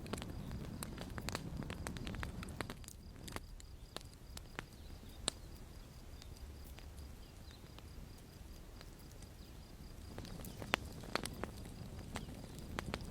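Campfire crackling: irregular sharp pops and snaps over a low, steady rumble of burning, with the pops thinning out in the middle and coming thicker again near the end.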